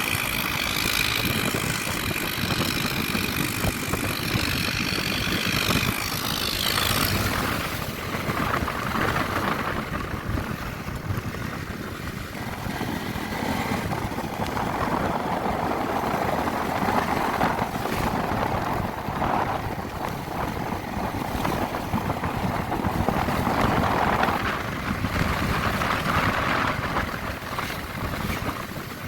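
Honda CB150R's single-cylinder engine running as the motorcycle is ridden, its note swelling and easing with the throttle, over wind rush on the microphone. A few high steady tones sound for the first several seconds.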